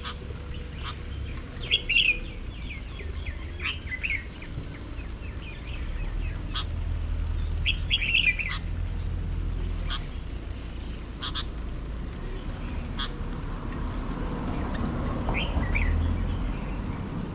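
Small garden birds calling: short bursts of quick chirps repeated every few seconds, with sharp single ticks scattered between them, over a steady low rumble.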